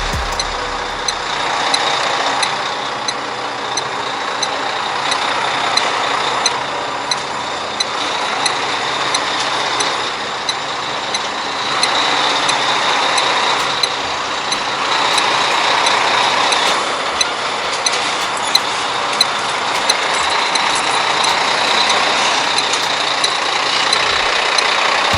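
Volvo semi-truck running: a steady mechanical noise with a constant high whine and faint short ticks.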